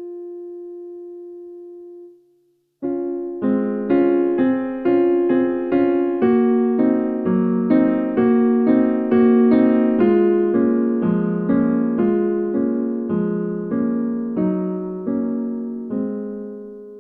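Solo piano music. A held chord dies away and the music briefly stops about two seconds in, then slow, evenly paced notes and chords follow, about two a second.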